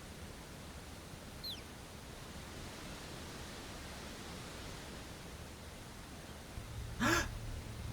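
Faint, steady rushing of water. A short, high, falling chirp comes about a second and a half in, and a brief voice-like sound over a low rumble comes near the end.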